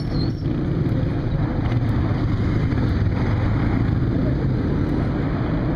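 Motorcycle engine running steadily while riding in traffic, with a constant low drone and road noise.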